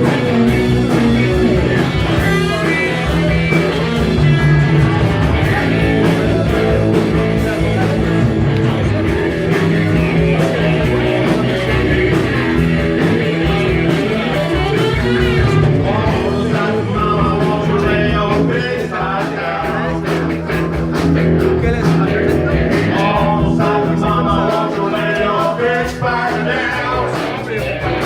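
Live rock band playing a bluesy rock song, with electric guitar to the fore.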